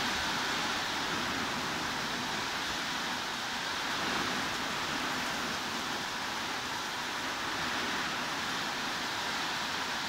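Heavy rain falling steadily, an even hiss with no single drops or other sounds standing out.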